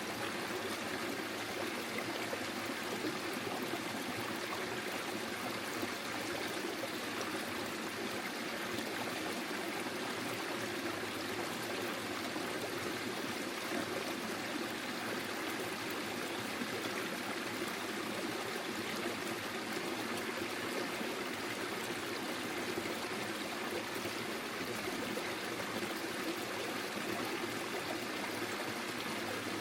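Small forest stream flowing steadily over stones, a continuous rushing and trickling of water.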